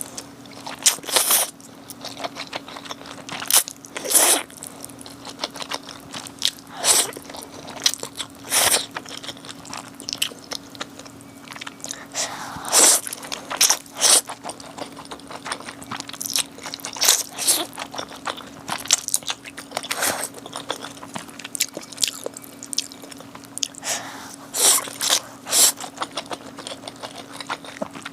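Close-miked eating: irregular crisp bites and chewing, some in quick clusters of two or three, over a faint steady hum.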